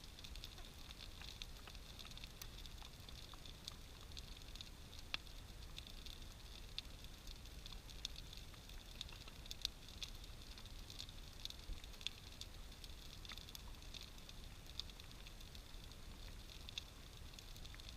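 Bonfire of a large wood and brush pile crackling, with irregular sharp pops and snaps over a steady high hiss.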